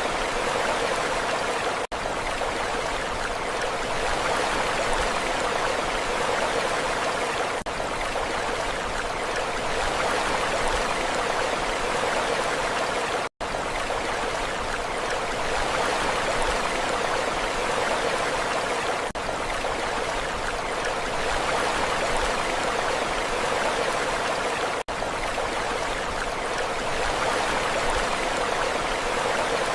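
Steady rushing water noise with no rise and fall, cutting out for an instant three times: about 2 seconds in, around 13 seconds and around 25 seconds.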